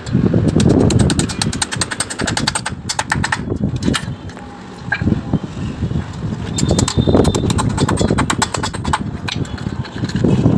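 Hammer drill boring into a wall: a rapid, rattling run of impacts that eases off briefly near the middle and then starts again.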